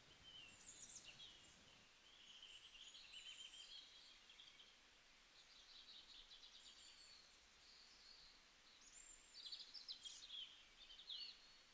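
Faint birds chirping and twittering in the background, in short trills and gliding whistles scattered through an otherwise near-silent stretch.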